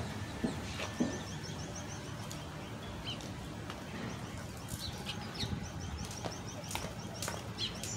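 Small birds chirping, with a quick run of high repeated chirps in the first few seconds and scattered single chirps after. A few sharp ticks are heard over a steady low outdoor hum.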